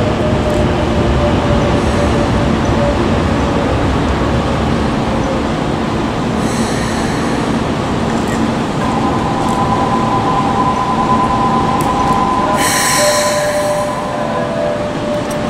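Electric train running on the rails with a steady whine, and a high wheel squeal twice, briefly about six seconds in and longer about thirteen seconds in.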